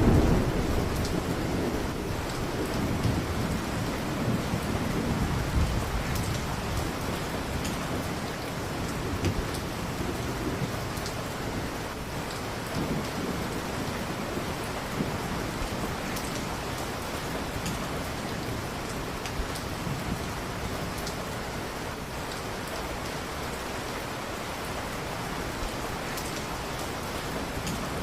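Steady heavy rain, with a roll of thunder rumbling at the start and fading away over the first several seconds.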